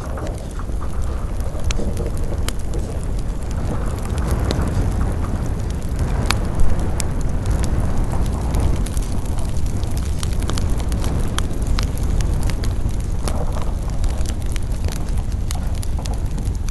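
Campfire burning, with scattered crackles and pops over a steady low rumble, and one louder pop a little past the middle.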